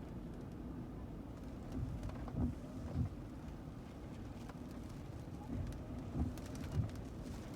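Typhoon wind and rain: a steady low rumble with a few louder low gusts, and faint patter of rain.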